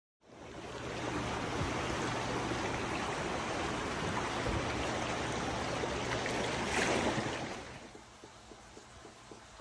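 Rushing floodwater: a steady noise of moving water that starts abruptly and drops to a much quieter level about eight seconds in, with faint regular ticking near the end.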